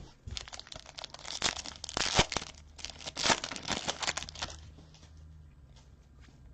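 Crinkling and tearing of a foil trading-card pack wrapper being opened and handled, with dense crackling for about four and a half seconds before it dies down to faint handling.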